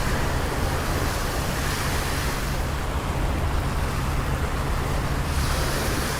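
Steady rain falling, with a continuous low rumble of city traffic under it.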